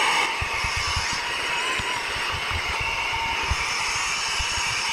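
Saker 3-in-1 cordless mini vacuum with a brushless motor running steadily on its low power setting, with a high whine, as its nozzle works over trunk carpet, with irregular low bumps.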